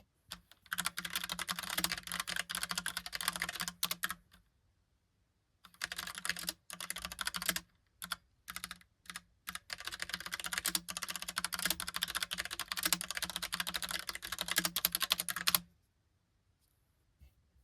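Rapid typing on a Logitech Pop Keys mechanical keyboard with round typewriter-style keycaps: three fast runs of key clicks with a few single key presses between them, stopping about two seconds before the end.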